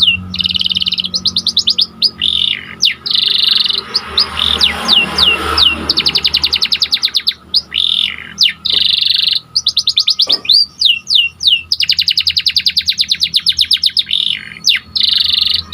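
Panda domestic canary singing continuously: long fast trills on one high pitch, alternating with quick downward-sliding whistle notes.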